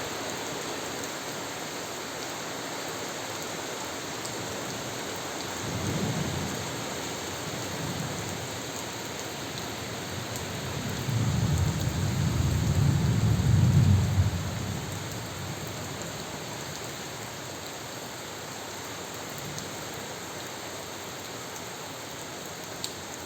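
Steady rain falling, with a short low rumble of thunder about six seconds in and a longer, louder roll of thunder from about eleven to fourteen seconds.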